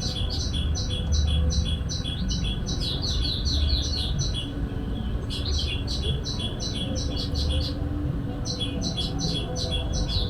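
Bird call played from an MP3 as a trapping lure: runs of quick, even, high chirps, about five a second, in bursts of two to three seconds with short pauses between them.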